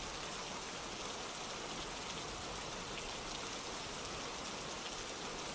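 Ambient rainfall recording: a steady, even hiss of falling rain.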